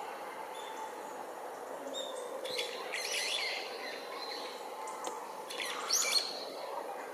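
Azure-winged magpies calling in two short bursts, about two and a half and six seconds in, over a faint steady drone.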